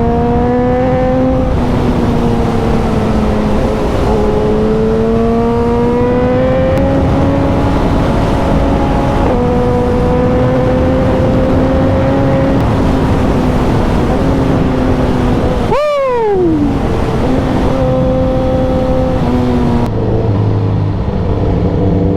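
Suzuki 1000cc naked motorcycle's engine running under way, its pitch climbing and stepping as it changes gear. Just past the middle the revs drop sharply in one quick fall. Near the end it settles to a lower note.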